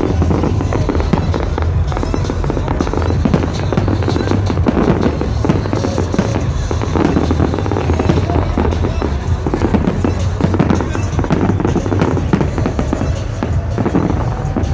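Fireworks going off in rapid, dense succession: many bangs and crackles overlapping without a break, over loud electronic dance music with a heavy bass.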